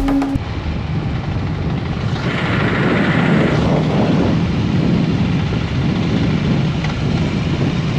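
Harley-Davidson Road King's V-twin engine running while riding, under steady wind and road noise. A music track cuts off right at the start.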